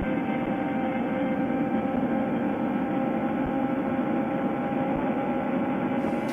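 Suzuki GSX-R600 inline-four running through an aftermarket CSRacing full exhaust system while riding, holding a steady engine speed.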